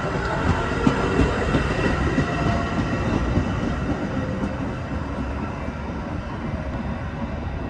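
Metra diesel commuter train pulling out of the station, running along the rails with repeated short clicks from the wheels. The sound eases off somewhat in the second half.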